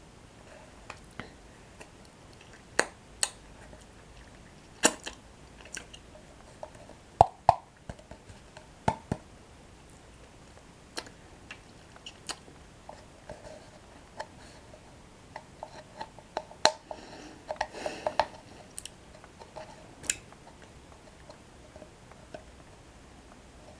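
Close-up chewing of crunchy toasted breadsticks with cocoa cream, heard as irregular sharp crunches and wet mouth sounds. There is a busier stretch of chewing about three quarters of the way through.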